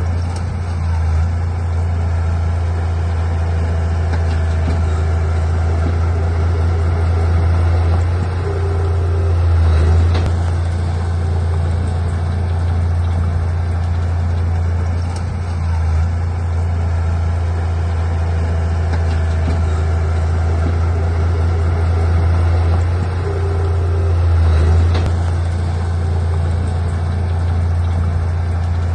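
Heavy diesel earthmoving machinery running steadily, a deep low engine drone that swells slightly a couple of times.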